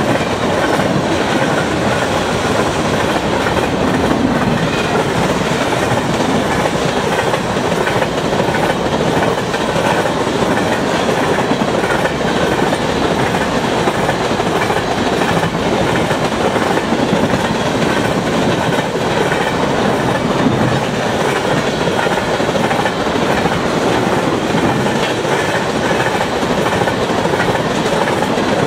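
Freight train of tank cars rushing past at over 100 km/h: steel wheels running on the rails in a steady, loud rolling noise that does not let up.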